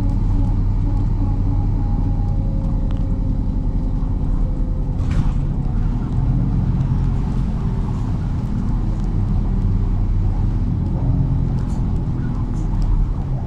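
MAZ-103.486 city bus under way, heard from inside the cabin: a steady, low diesel engine rumble with road noise, and a short burst of noise about five seconds in.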